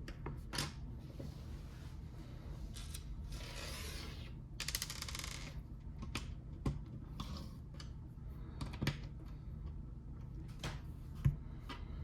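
Scattered small clicks and taps of plastic Lego pieces being handled and pressed together, over a steady low hum, with two longer rustling sounds about four and five seconds in.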